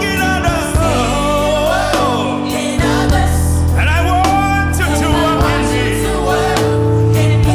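Gospel worship song: singers with a choir over sustained keyboard and bass accompaniment.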